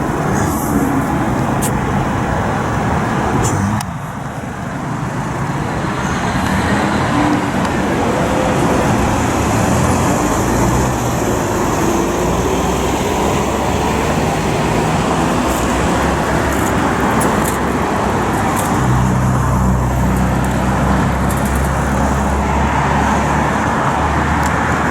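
Road traffic running steadily, with a heavy vehicle's engine drone close by, loudest in the last few seconds.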